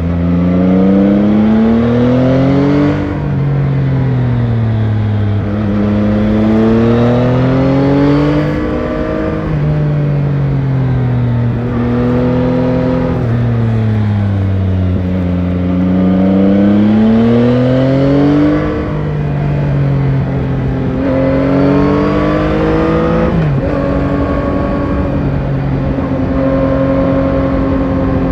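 Yamaha Tracer 9 GT's 890 cc CP3 inline-three engine on stock exhaust, heard onboard while riding. Its pitch climbs under throttle and drops sharply at each change, four times, then holds steady as the bike cruises near the end.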